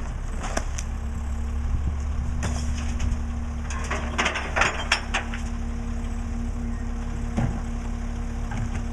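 Mack LE garbage truck's diesel engine running steadily, with a steady hum that comes in about a second in. Metallic clanks and knocks come in a cluster around the middle.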